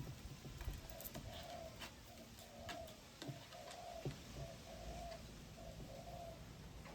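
A dove cooing: a series of about six low, hollow coo notes, evenly spaced, starting about a second in. A few faint sharp ticks sound in between.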